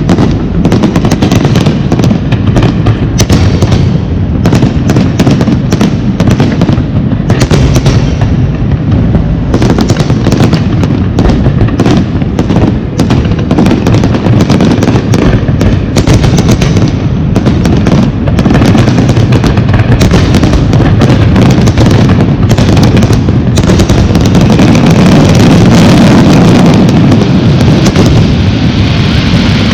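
Fireworks display: a dense, rapid barrage of loud aerial shell bursts and crackles going off one on top of another. Near the end the separate bangs thin out into a more continuous rumble.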